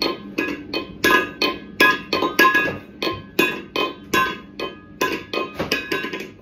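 Small metal bowl clinking over and over against a hard surface, about two to three strikes a second, each with a short metallic ring at the same pitch.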